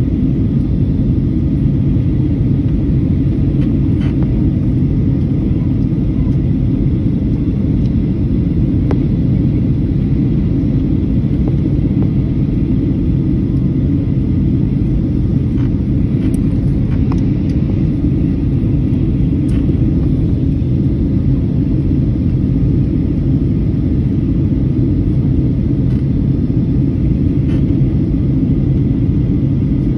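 Steady low drone of an airliner's engines and rushing air heard inside the passenger cabin, even and unchanging, with a few faint ticks.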